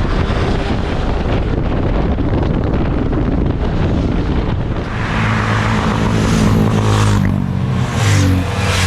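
Motorcycle engine running and wind buffeting the microphone while riding; about five seconds in, a steady, deeper engine note comes in and holds.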